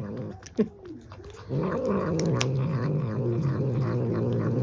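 A cat's low, drawn-out yowl that starts about a second and a half in and holds steady, after a brief falling cry near the start.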